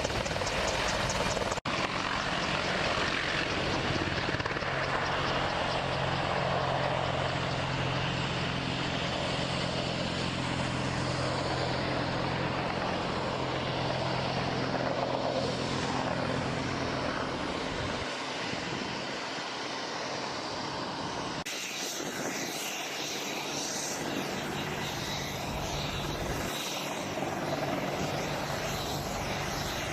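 Steady aircraft engine noise with a low hum, changing abruptly about 2 seconds in and again about 21 seconds in.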